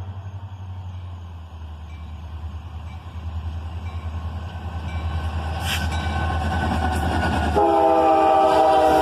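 Diesel freight locomotive approaching, its low engine rumble growing louder, then its air horn sounding a steady multi-note chord about three-quarters of the way through and holding.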